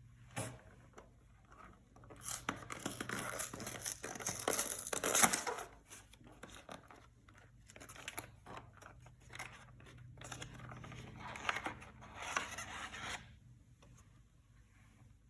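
The packaging of a Yu-Gi-Oh structure deck being torn open and crinkled by hand, in two stretches of tearing and rustling with quieter handling between; a single sharp click comes just before.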